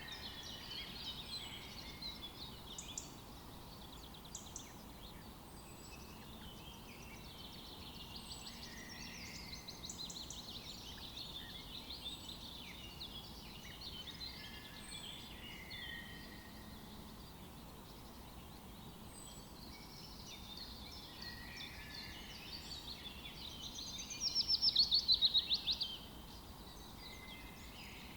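Several songbirds singing and chirping over a faint outdoor hush, with a thin high note repeating every few seconds. Near the end, a louder rapid trill lasts about two seconds.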